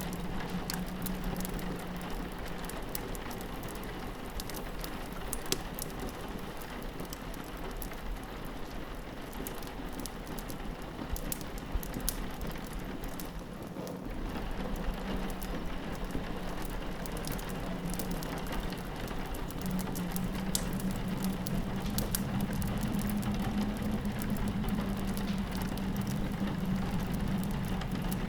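Continuous rain pattering against a window, layered with the sharp scattered pops and crackles of a fireplace. A low wind howl fades out early on and swells back in during the second half.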